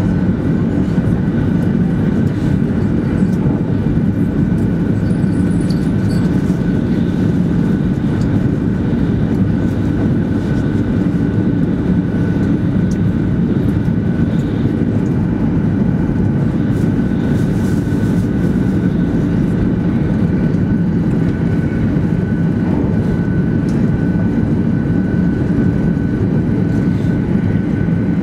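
Cabin running noise of a 200 series Shinkansen travelling at speed: a steady low rumble from the wheels and running gear, with a thin steady whine above it.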